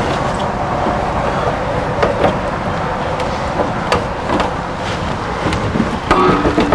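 Steady rumbling background noise with a few sharp knocks spread through, while the water heater is being pulled loose.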